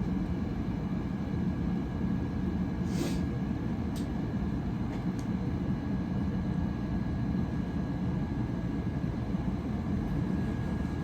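Steady low rumble of machine-like background noise with a faint steady high whine, and a few soft ticks in the first half.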